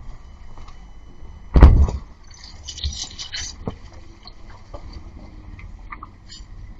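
A single heavy thump about one and a half seconds in, followed by scattered light clicks and clatter.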